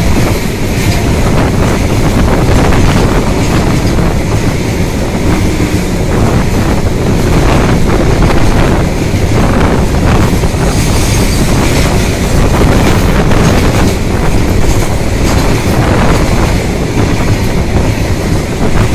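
Two trains crossing at speed: a long freight train of covered wagons rushes past close alongside a moving passenger train. A loud, steady rush of air and rail noise with fast wheel clatter, and wind buffeting the microphone.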